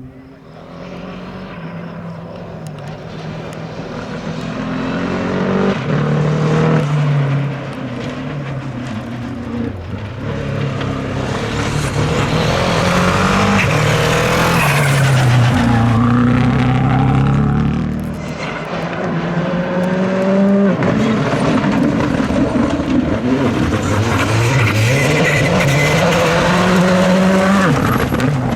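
Rally car engine revving hard through the gears, the pitch climbing and dropping with each shift, easing off briefly twice and pulling again as it gets louder and closer.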